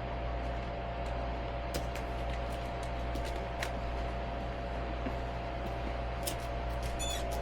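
A steady machine hum with a few faint clicks.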